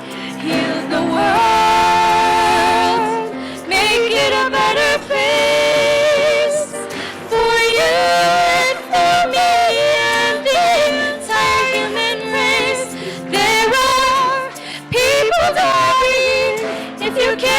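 A song: a female voice singing long, wavering notes in phrases over sustained accompaniment.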